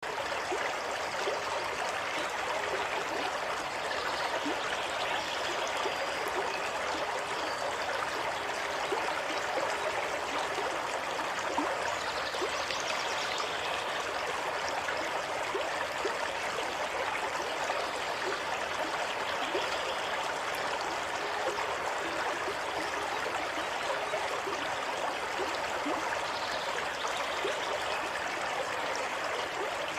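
Water running in a stream, a steady, even rush of flowing water with small trickling and splashing detail throughout.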